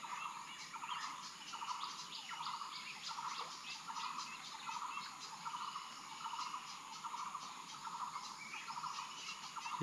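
Faint chorus of insects chirping in quick repeated pulses, with higher thin chirps over them.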